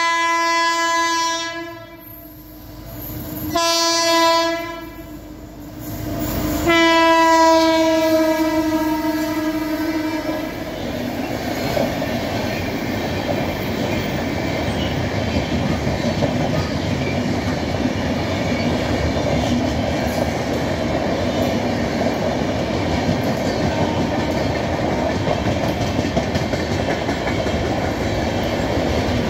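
Express train's locomotive horn sounding three blasts, two short and a long last one that drops in pitch as it goes by, then the steady noise of its LHB coaches running through at speed.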